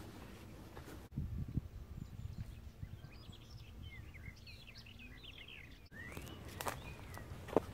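Small birds chirping and singing in quick, short notes for a couple of seconds in the middle, over a low outdoor rumble. Then footsteps on a woodland path, with a couple of sharp clicks near the end.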